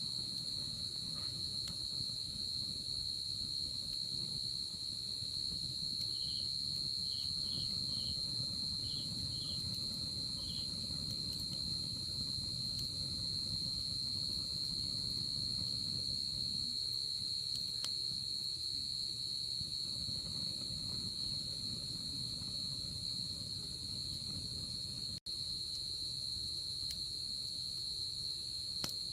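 Night insects, crickets among them, calling in a steady, unbroken high trill, with a few short chirps a little lower in pitch partway through. The sound cuts out for a split second near the end.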